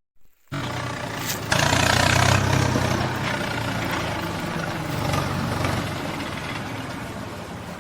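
Heavy vehicle engine running: it comes in about half a second in, gets louder at about a second and a half, then runs steadily and slowly fades.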